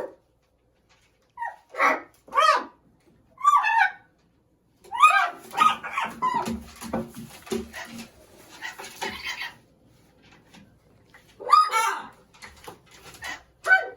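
Macaws making short vocal calls, a few at first, then a busy stretch of calls over scuffling and scratching as they play, and a burst of calls again near the end.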